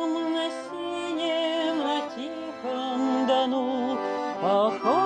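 Folk music: the accordion-accompanied introduction to a Russian folk song. A melody line with vibrato and a few sliding notes plays over sustained chords.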